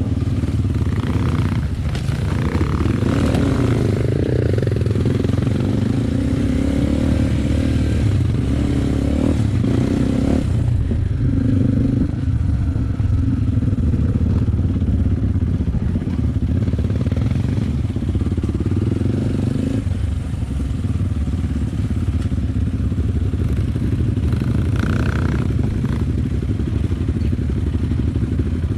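Enduro motorcycle engine running continuously while riding, its note shifting with the throttle, with occasional knocks and rattles from the bike.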